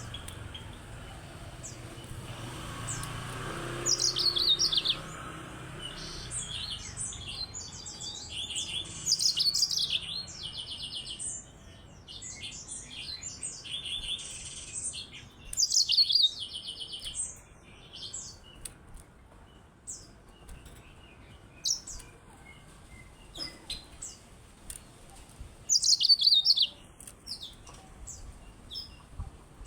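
Yellow-fronted canary (Mozambique canary) singing: bursts of rapid, high twittering phrases, a few louder than the rest, with quieter single notes between them.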